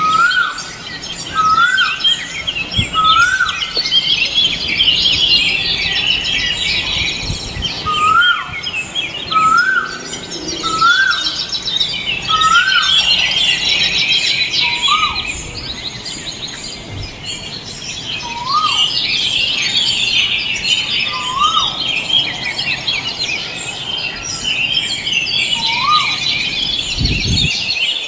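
Many birds chirping together, with one bird repeating a short rising whistle every second or two.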